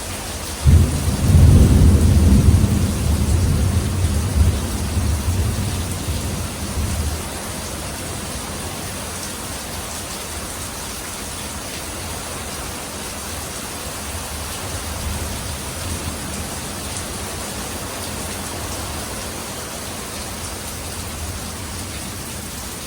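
Steady rain falling, with a sharp clap of thunder under a second in that rumbles on low and fades away over about six seconds.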